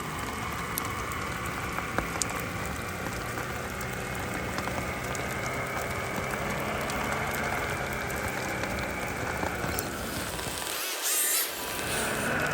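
Small electric motor and gears of a radio-controlled crawler truck whining steadily as it crawls, over a steady hiss of rain. About eleven seconds in, the low rumble drops out briefly under a short burst of hiss.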